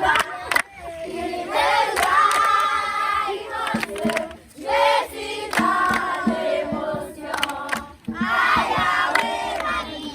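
A group of voices singing a song together in short phrases, with hand claps.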